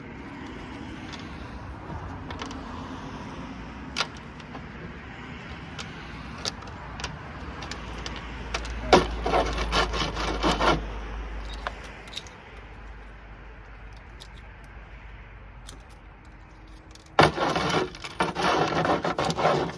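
Small loose metal parts, the screws and washers from dismantled light sockets, clicking now and then as they are handled, with two stretches of rapid jingling clatter, about nine seconds in and again near the end.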